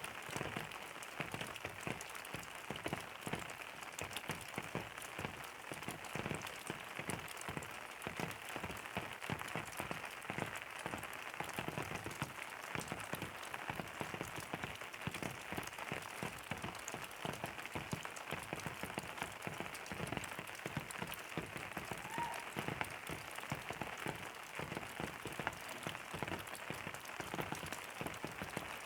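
Steady rain falling, a dense, even spatter of countless small drops striking a surface.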